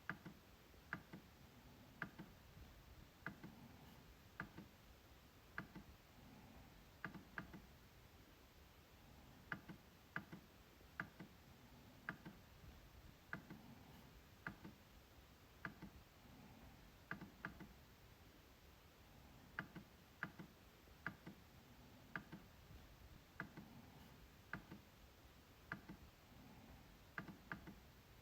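MacBook trackpad being clicked, sharp little clicks about once a second, now and then two in quick succession like a double-click.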